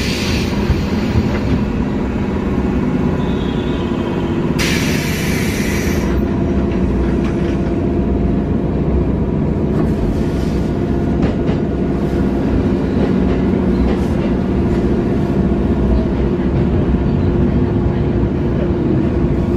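Inside an electric local train's carriage at a station: a steady rumble and hum of the train's equipment, with a short hiss of compressed air from the door mechanism about five seconds in. In the second half come light clicks and rattles as another train runs past close alongside.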